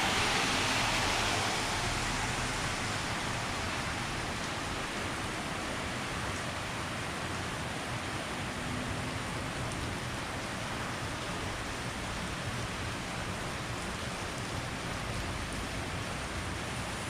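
Heavy rain falling in a steady hiss. A louder, brighter rush at the start eases off over the first couple of seconds, then the rain holds even.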